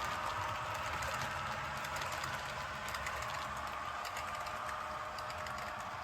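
HO scale model coal train running on the track: a steady whine from the locomotive motor with light, irregular clicking of wheels over the rails.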